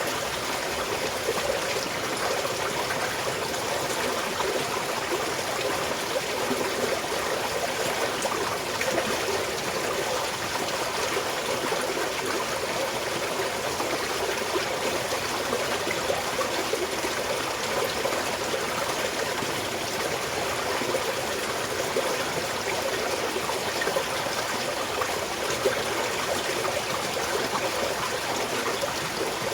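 Small mountain stream flowing and trickling steadily over rocks, with an even splashing rush and small irregular splashes.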